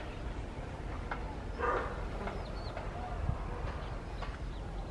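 Outdoor birds chirping in short calls, with a brief louder call about a second and a half in, over a steady low rumble.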